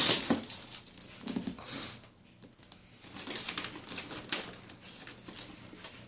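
Gift wrapping paper being rustled and torn in irregular crackling bursts.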